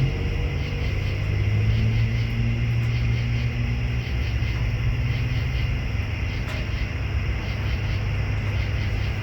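Ducati Panigale's L-twin engine running with a steady low rumble; the low hum eases a little about four seconds in.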